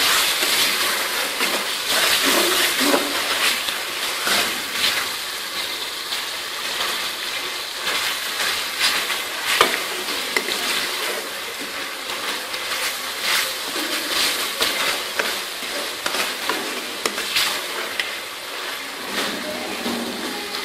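Mutton keema sizzling as it fries in oil in a metal kadai, with a metal ladle stirring it and scraping and knocking against the pan at irregular intervals.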